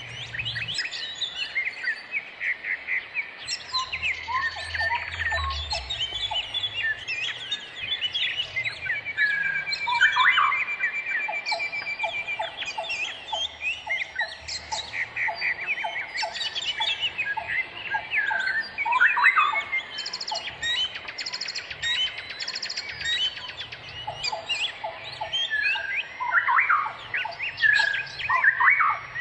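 Many birds chirping and calling at once, a dense chorus of short chirps, pitch sweeps and rapid trills that overlaps all the way through.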